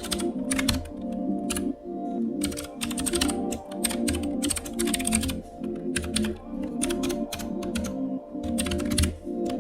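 Typing on a computer keyboard: quick runs of clicking keystrokes with short pauses between them, over background music.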